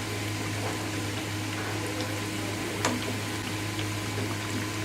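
Breaded chicken chop deep-frying in oil on low heat: a steady, gentle bubbling of the oil, with one light click about three seconds in.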